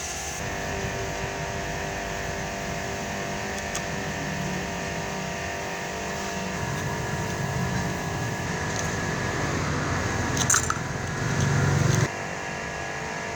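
Small electric motor running steadily with a whine, getting louder near the end and then cutting off suddenly.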